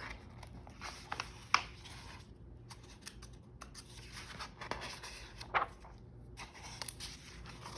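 Paper handling from a picture book, with faint rustling and scraping and a few sharp clicks, the loudest about one and a half seconds in and again near the middle.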